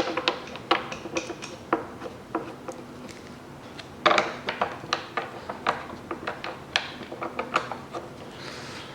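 Light metal clicks and clinks of valve cover bolts being handled and started by hand into the cover, irregular throughout with a busier cluster about four seconds in.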